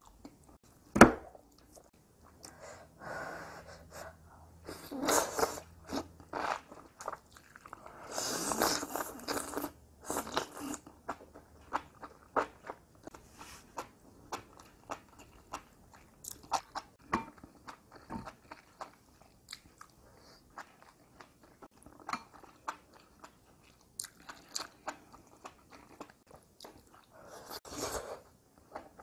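Chewing and biting of enoki mushrooms in spicy chili sauce: wet, crunchy mouth sounds with scattered small clicks. A single sharp click about a second in is the loudest sound.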